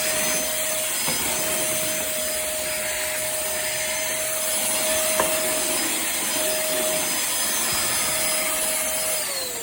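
Cordless handheld vacuum cleaner's motor running with a steady whine, then switched off near the end, its pitch falling as it spins down.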